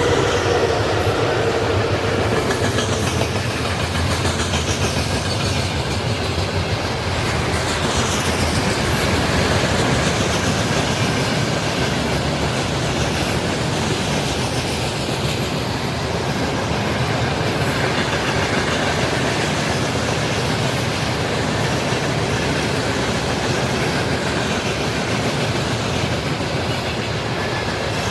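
Freight train wagons rolling past, a steady rumble of steel wheels on rail with a clickety-clack over the rail joints.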